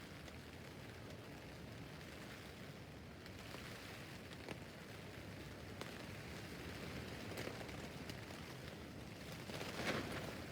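Rain falling on a tent roof: a faint, steady hiss of drops with scattered single ticks, and a brief louder rush near the end.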